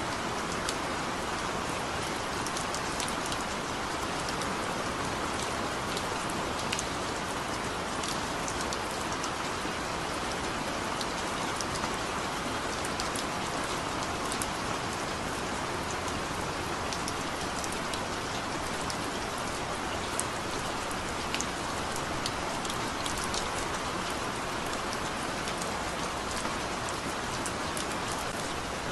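Heavy rain falling steadily, a dense even hiss with scattered individual drops ticking sharply on a surface.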